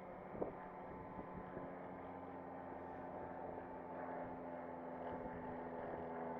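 Blackpool heritage tram's electrical equipment giving a steady hum with several fixed tones, slowly getting a little louder, with a brief knock about half a second in.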